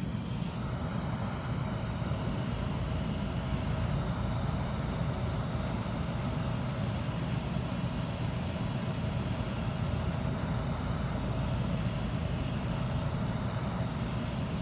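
Hot air rework station blowing steadily, turned down to 130, heating the phone to soften the back-glass adhesive: an even rushing rumble with a faint steady hum.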